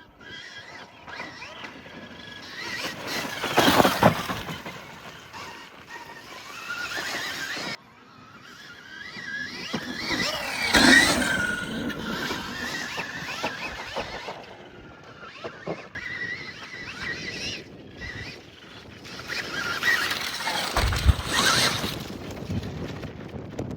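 Dirt bikes riding, their sound swelling and fading three times as they pass, with an abrupt break about eight seconds in.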